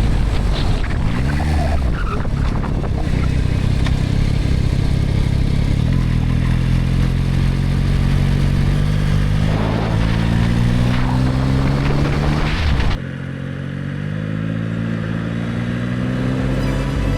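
Motorcycle engine running under way with rushing wind noise, its pitch climbing as it accelerates, then dropping suddenly about thirteen seconds in and climbing again.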